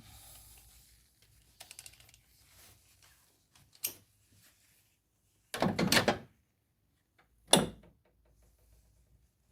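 Hand tools and engine parts being handled: a short run of light clicks, a half-second rattling clatter about six seconds in, and a single sharp knock a second later, the loudest sound.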